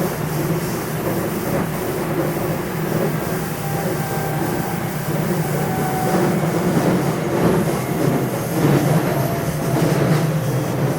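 Running noise inside the motor car of a JR West 227 series electric train with Hitachi IGBT VVVF control, under way at speed. There is a steady wheel-and-rail rumble, with occasional rail-joint clicks and faint motor and inverter tones.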